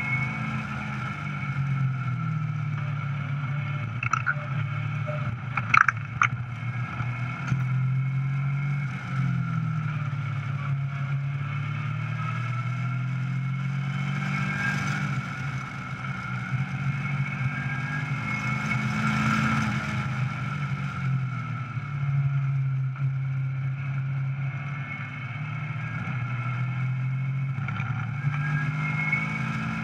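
Caterham 420R SV's four-cylinder Ford Duratec engine heard onboard at track pace, its pitch rising and falling again and again as the car accelerates and slows through the gears. A few sharp clicks come about four to six seconds in.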